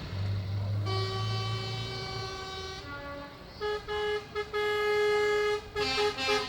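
Truck horns sounding: one held note about a second in, then a string of short blasts and one longer blast on a slightly higher-pitched horn, over a low engine hum early on.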